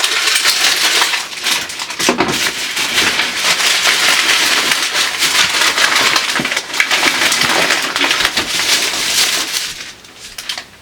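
Plastic packaging being handled, making a dense, steady crackling and crunching that dies away about ten seconds in.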